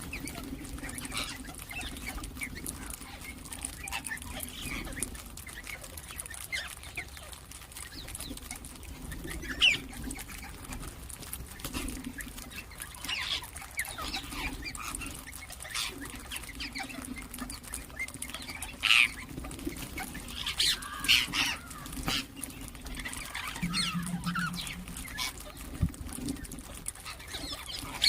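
Ringneck parakeets giving scattered short, high calls and chirps. The sharpest calls come about ten seconds in, again near nineteen seconds, and in a quick cluster just after twenty seconds. A low drone runs beneath them.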